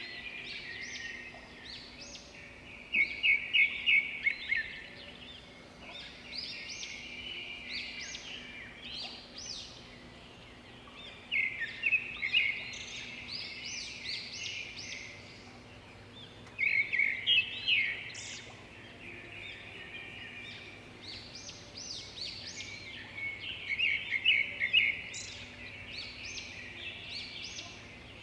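Birds chirping continuously, with four louder runs of quick repeated chirps spread through it.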